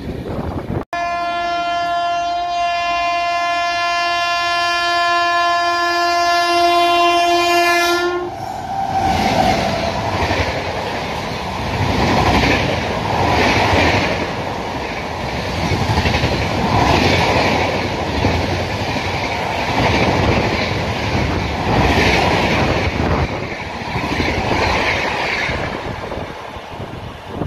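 Briefly the rush of a passing train, cut off abruptly, then an Indian Railways locomotive's air horn sounding one long steady blast of about seven seconds. A train then passes at speed: a loud rush of coaches, with the rhythmic clatter of wheels over the rail joints swelling and fading every couple of seconds.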